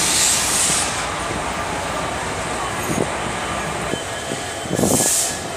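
Trains at a railway platform: a steady rumble, with two short bursts of high hiss, one at the start and one near the end.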